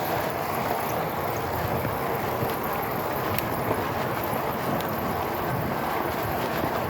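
Steady wind and riding noise from an e-bike on the move, with the noise of a rear hub running underneath, which the other rider calls annoying.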